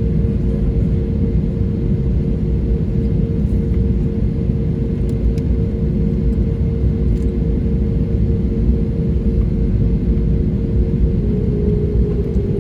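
Steady jet airliner noise: a loud, even low rumble with two steady engine tones a little below 500 Hz.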